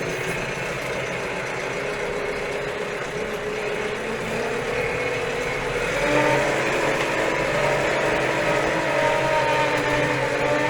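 A Steyr 4075 Kompakt tractor's four-cylinder Fiat Powertrain diesel engine running steadily. About six seconds in it gets louder and its note rises a little as the revs pick up.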